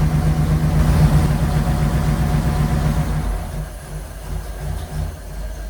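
Ford flathead V8 engine with twin Holley 94 carburetors idling warm but running rich. About three and a half seconds in, its running turns uneven and it slows, dying away at the end as the engine stalls.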